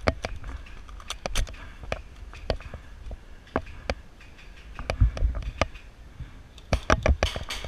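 Airsoft gunfire: sharp irregular cracks of shots and BBs striking, spaced unevenly, with a quick run of several cracks near the end.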